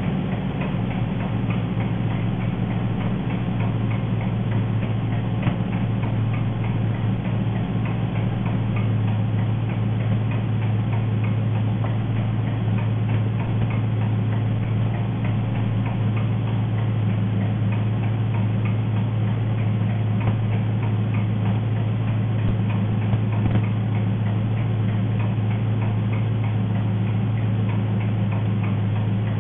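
Car engine running steadily on gas fuel, with a loud, fast, even ticking clatter over its steady hum. The uploader calls the clatter enormous.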